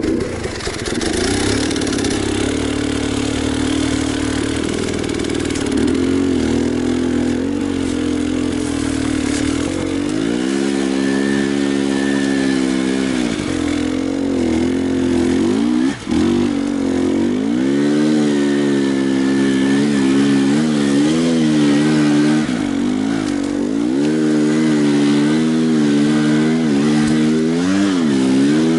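Enduro motorcycle engine running under way, its revs rising and falling again and again as the throttle is worked, with a brief drop about sixteen seconds in.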